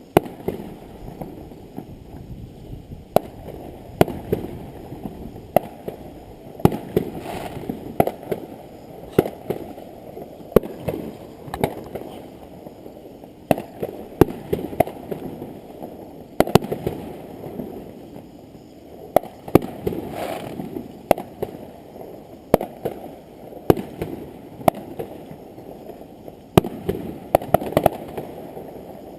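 Fireworks display: a steady run of sharp bangs from bursting shells, irregularly spaced at about one or two a second, over a continuous low background rumble.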